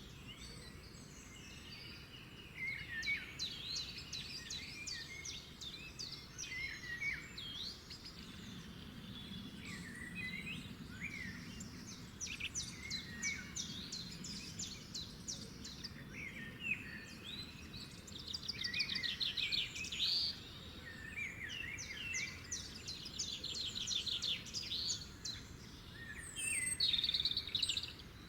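Several songbirds singing at once: overlapping chirps, whistled notes and fast trills, over a low steady background hiss.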